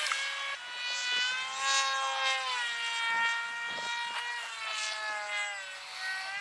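Radio-controlled model airplane in flight, its motor and propeller giving a steady whine whose pitch slides up and down as it throttles and passes by.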